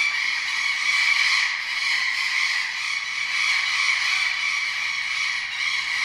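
Many tropical birds squawking at once in a dense, continuous chorus with no breaks.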